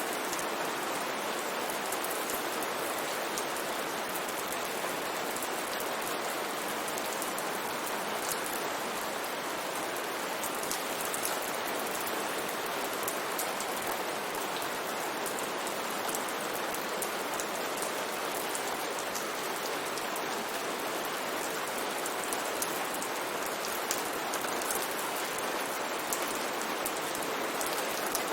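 Steady rain falling, an even hiss with many small drops pattering in the highs.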